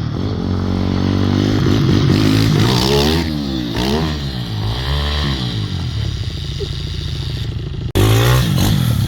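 Small dirt bike engine running and revving, its pitch swinging up and down several times in the middle. It breaks off abruptly about eight seconds in and comes straight back at a steadier pitch.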